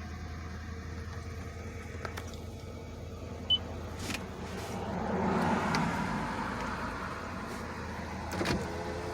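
2004 Lexus LX470's 4.7-litre V8 idling steadily just after a cold start. A few sharp clicks come through, and a broad swell of louder noise rises and fades a little past the middle.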